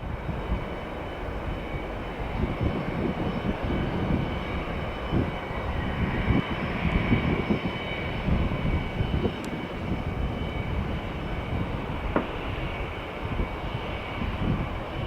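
Jet airliner engines running: a steady rumble with a faint high whine over it.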